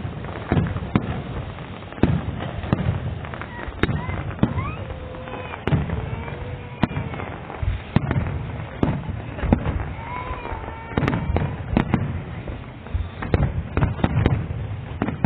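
Aerial fireworks display: shells bursting in an irregular barrage of sharp bangs, often several a second, with no let-up.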